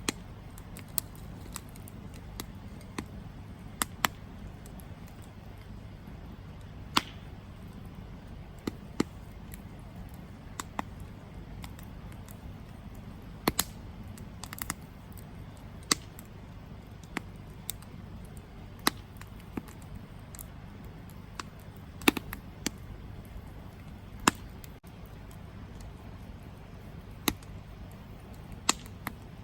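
Campfire burning: the wood crackles with sharp, irregular pops about once a second, some louder than others, over a steady low rumble of the flames.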